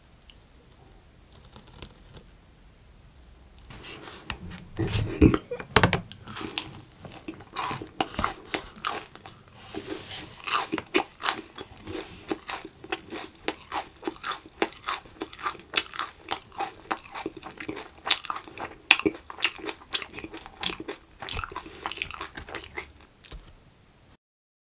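Close-miked eating: a person bites and chews crunchy candy, with rapid sharp crunches and wet chewing. It starts about four seconds in and cuts off suddenly near the end.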